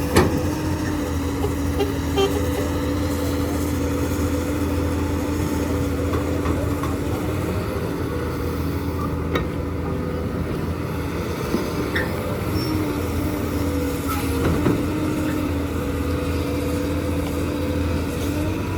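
Heavy diesel construction machinery running steadily, with a held whine over the engine hum. A few sharp knocks, the strongest at the very start, and others scattered through.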